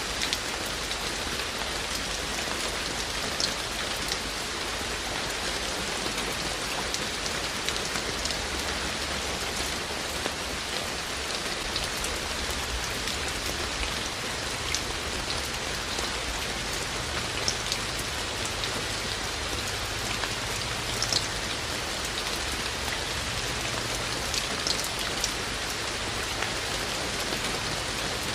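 Steady rain falling, with a few sharper, louder drops striking close by now and then.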